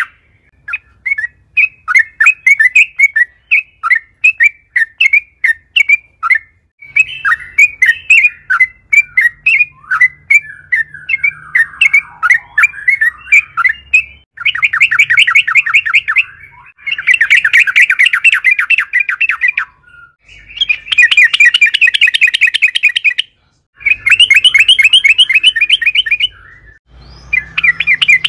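Yellow-vented bulbul (trucukan) singing: at first separate bubbly chirps, about two a second, then from about halfway on a run of fast rolling trills, each two to three seconds long, with short breaks between them.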